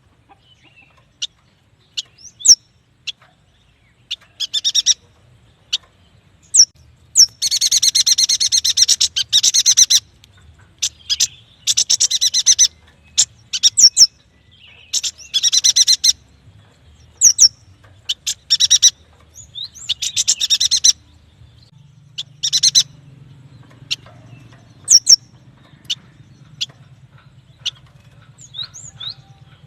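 Yuhina calling: sharp, high single chips scattered throughout, between rapid chattering phrases of one to three seconds, the longest about seven seconds in.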